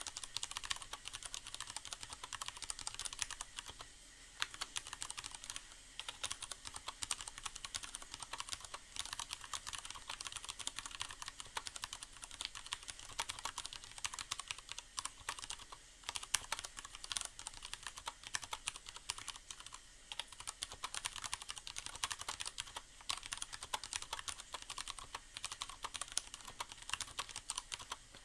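Fast, continuous typing on a Leopold FC750R mechanical keyboard with Cherry MX Brown tactile switches and a sound-dampening pad inside the case. The many key clicks run together, with a steady hiss of rain in the background.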